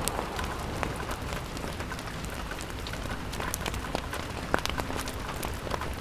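Steady rain pattering on a window, mixed with a fireplace crackling and giving a few sharp pops.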